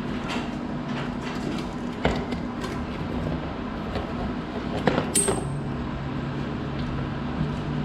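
Metal garage door hardware and hand tools clicking and knocking during cable repair work, with a sharp clank about two seconds in and a cluster of clanks about five seconds in, one ringing briefly. A steady low hum runs underneath.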